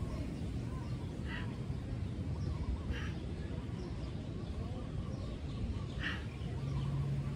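A low steady rumble with three short bird calls, about a second and a half in, at three seconds and at six seconds, and faint chirps between them.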